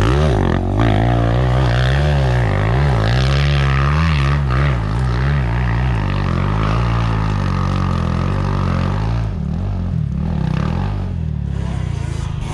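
Enduro motorcycle engine being ridden off-road, revving up and down repeatedly as the throttle opens and closes. After about nine seconds it settles to a lower, steadier note.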